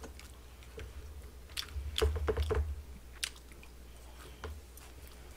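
Close-up chewing and biting of crispy fried chicken gangjeong, with a few sharp crunches and clicks that cluster about two seconds in.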